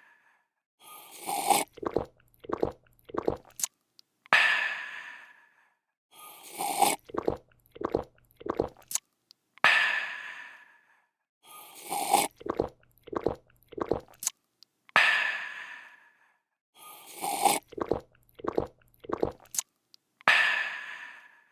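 A looped drinking sound effect: a quick run of gulps and swallows, then a breathy, refreshed "aah" that fades away. The cycle repeats about every five and a half seconds, four times over.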